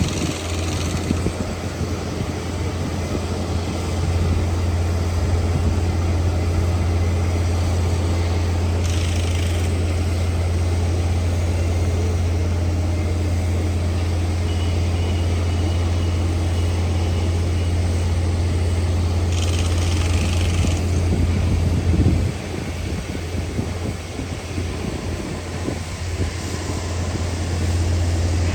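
Sydney Trains Waratah electric train at the platform, a steady low hum, with short hisses about every ten seconds. It gets somewhat quieter a little past two-thirds of the way through.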